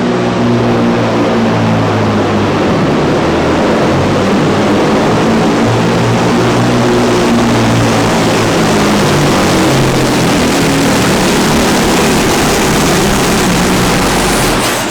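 Big diesel truck engine running hard under the load of a pulling sled, a loud steady drone that falls away at the very end.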